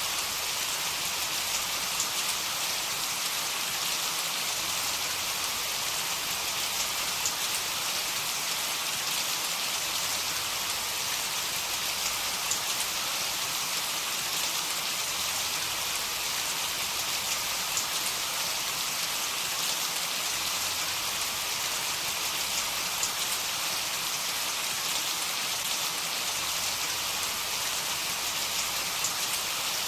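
Heavy rain falling steadily, an even hiss of drops on a surface with no thunder.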